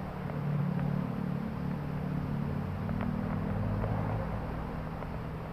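A motor vehicle's engine running close by, a low hum that grows louder about half a second in and eases off near the end, like a vehicle passing.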